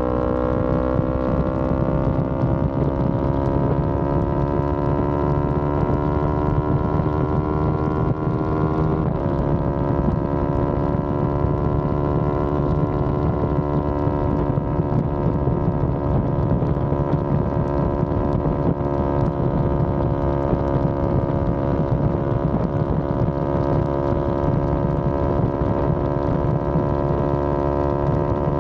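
Yamaha R25's parallel-twin engine under steady acceleration while riding, its pitch rising slowly, then dropping suddenly about nine seconds in as it shifts up a gear, after which it runs on at a near-steady pitch, creeping slightly higher.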